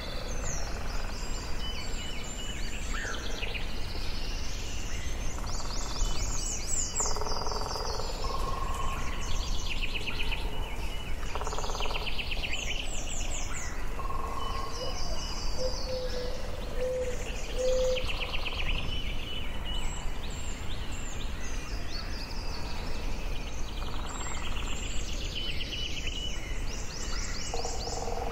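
Forest ambience: several birds singing in overlapping phrases of rapid, trilled notes, over a steady low background noise.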